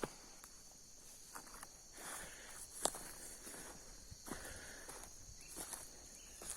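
Faint scattered footsteps and rustling in dry leaf litter, with one sharper snap about three seconds in, over a steady high-pitched insect chorus.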